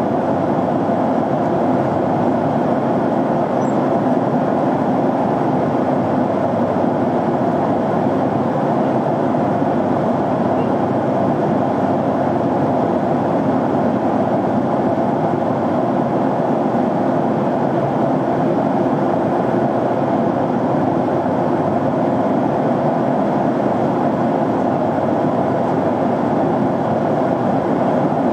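Airliner cabin noise in flight: a steady, even rushing from the jet engines and the airflow over the fuselage, with no change throughout.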